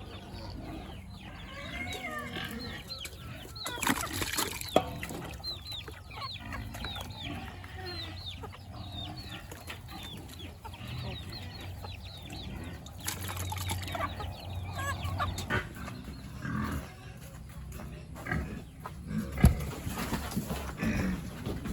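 Chickens clucking, with many short high peeps throughout. A few sharp knocks stand out, the loudest about 19 seconds in.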